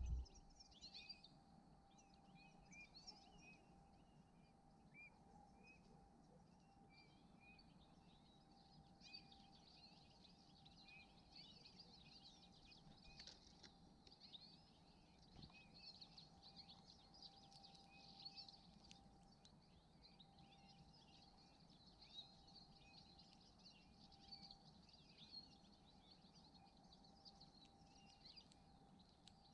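Small songbirds chirping and twittering faintly, many short high calls scattered throughout, over a faint steady hum.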